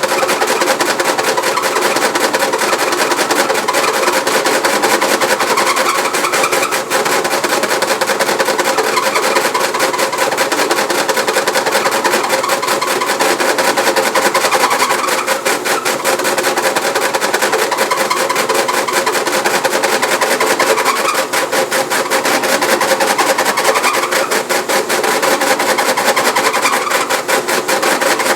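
Frigidaire washing machine running with a loud, rapid rattling over a steady hum: the excessive noise and vibration of a machine that shakes too much.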